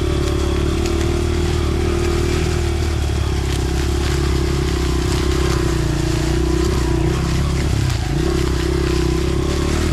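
Small dirt bike engine running steadily at low revs, with no revving.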